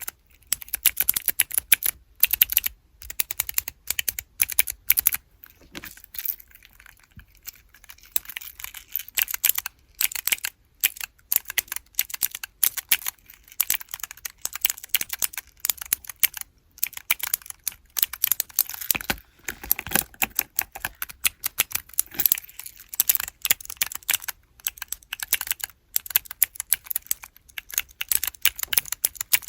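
Keyboard-block keychains with clicky blue switches being pressed rapidly, a dense run of sharp clicks with a few short pauses and a quieter patch a few seconds in.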